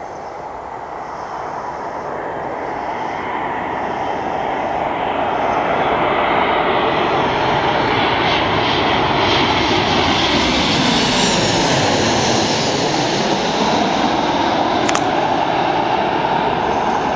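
Boeing 737-800 on landing approach, its CFM56 turbofans growing louder over the first several seconds and then holding a steady loud rush. About twelve seconds in, a falling-then-rising sweep runs through the tone as the jet passes over.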